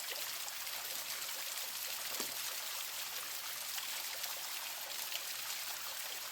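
Small creek waterfall, a steady rush and splash of falling water close by.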